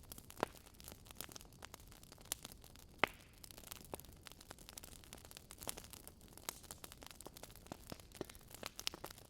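Wood fire crackling: irregular small pops and snaps, the sharpest about three seconds in, over a faint steady hiss.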